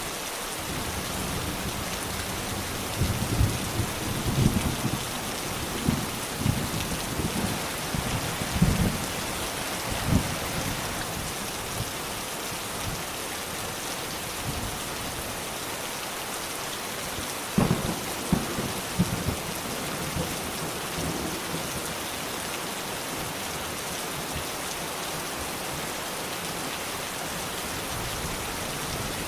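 Steady rain hissing, with two spells of crackling thunder rumbles, the first about 3 to 10 seconds in and the second around 18 seconds in.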